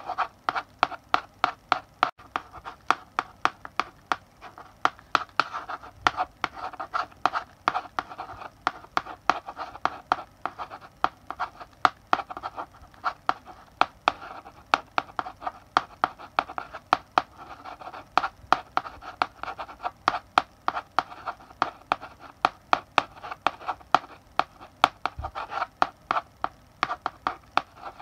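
Chalk writing on a blackboard: quick taps of the chalk striking the board, several a second in an uneven rhythm, between short scratchy strokes.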